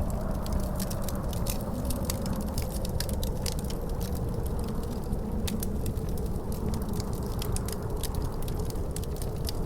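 Wood fire crackling with many quick, sharp pops over a steady low wind roar, with a faint howling tone that slowly sinks and rises again.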